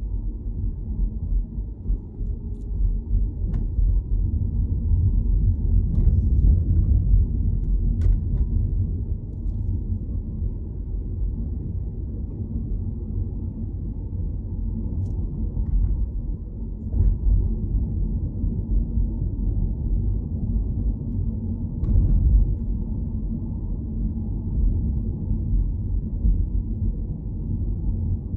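Steady low rumble of a car driving along a road, with a few faint clicks scattered through it.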